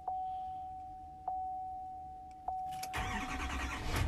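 Dashboard warning chimes ring three times, about a second apart, over a steady tone. Near the end the 2019 Chevrolet Duramax turbodiesel cranks and fires on a cold start in freezing weather.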